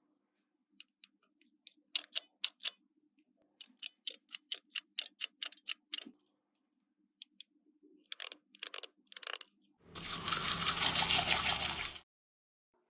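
Plastic toy pieces being handled: light clicks and taps, settling into a regular run of about four a second, then a few louder knocks. Near the end comes a loud, rough rasping noise lasting about two seconds.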